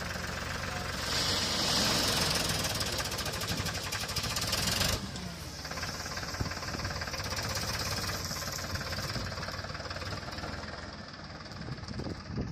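Tractor engine running steadily with a fast, even firing rhythm. A high hiss rides over it and grows louder for a few seconds, then cuts off sharply about five seconds in.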